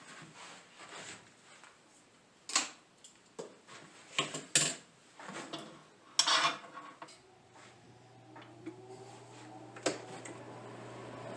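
Clattering of tools and small hard parts being handled and set down, with sharp clicks and knocks. About two-thirds of the way through, a workshop power tool's motor starts with a steady hum and a rising whine as it spins up.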